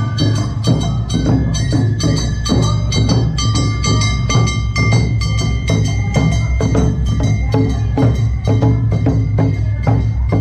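Awa Odori festival band playing: drums and a clanging kane hand gong keep a fast, even beat while a bamboo flute holds high melody notes over them.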